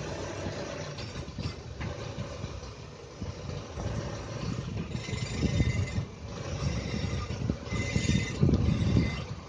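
Renault Duster's propeller shaft squeaking as the car runs, over a steady vehicle rumble that swells in the second half. A thin, high squeak comes in near the end. The owner notes the squeak lessens when the clutch is pressed.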